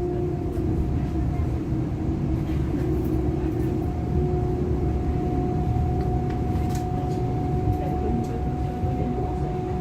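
Inside a Class 425 electric multiple unit running at a steady speed: the low rumble of wheels on the rails, with a steady hum that holds one pitch throughout.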